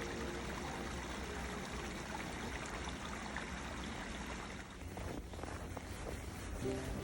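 Water of a stream running steadily, with a soft background hum of music fading out near the start and returning near the end.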